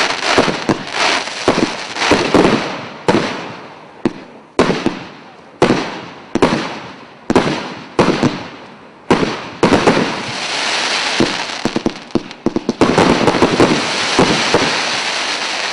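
MC112 multi-shot firework cake firing: sharp shots about one a second, each trailing off in a fizzing tail, then from about ten seconds in a dense, rapid barrage of overlapping shots, the cake's finale, fading out at the end.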